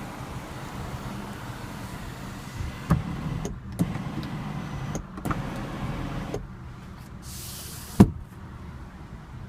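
Electric moonroof motor running with a steady low whir, with a couple of clicks as the panel moves, stopping about six and a half seconds in. A sharp click follows near the end.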